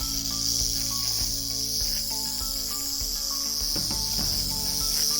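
Steady high-pitched insect buzzing, under soft background music with a slow melody of single notes.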